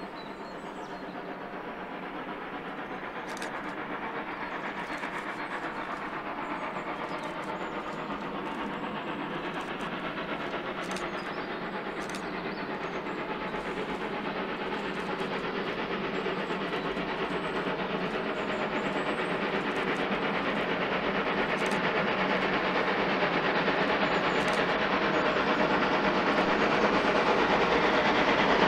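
A train on the move on a heritage railway: a steady running noise that grows gradually louder, with faint clicks over it.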